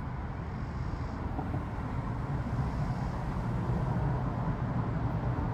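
Steady low rumble with no other event.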